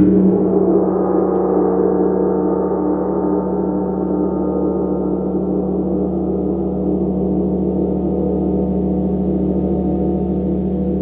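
A gong ringing on in a long, sustained wash of overlapping tones that waver, its higher overtones slowly fading away.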